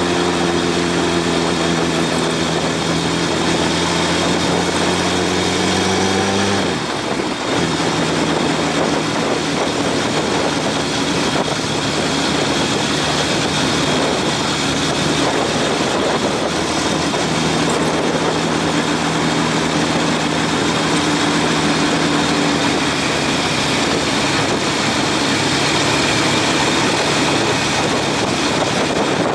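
Honda CB750's inline-four engine running steadily while riding, under a loud rush of wind noise. About seven seconds in the engine note briefly drops out and resumes at a steady pitch, like a gear change.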